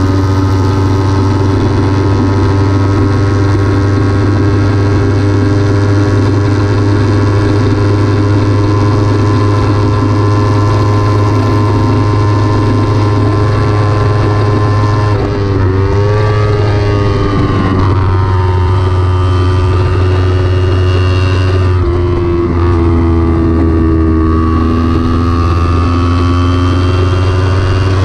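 Kawasaki Ninja 300 parallel-twin engine running hard at high revs on track. About halfway through the pitch drops sharply and climbs back, then dips again a few seconds later before rising once more as the bike is driven back up through the revs.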